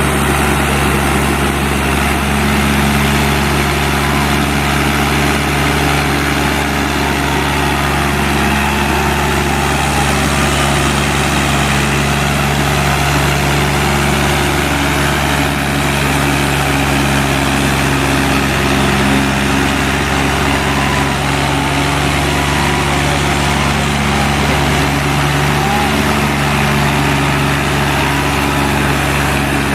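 Diesel tractor engines running hard and steady under heavy load as two tractors pull against each other in a tug-of-war, their pitch holding almost constant.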